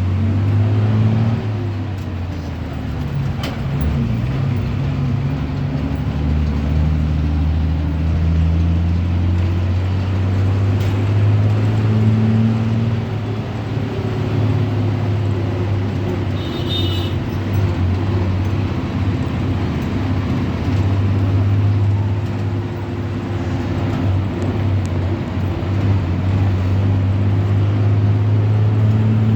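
Ashok Leyland JNNURM city bus engine running under way, heard from on board, its low drone rising and falling in pitch as the bus speeds up and slows.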